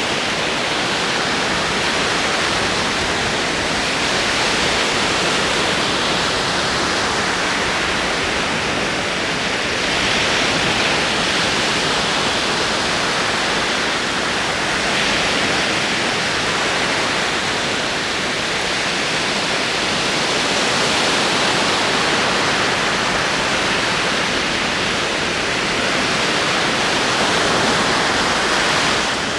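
Ocean waves rolling in, a steady rushing wash of surf that swells gently every five or six seconds.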